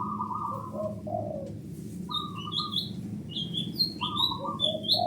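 Zebra dove (perkutut) cooing in repeated phrases, each a high note stepping down to a lower one, about three phrases. High, quick chirps of small birds overlap from about halfway in, over a steady low background hum.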